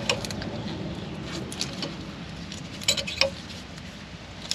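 Brake-line flaring tool being worked on a steel brake line: scattered light metallic clicks and clinks in small clusters as the tool is turned and adjusted.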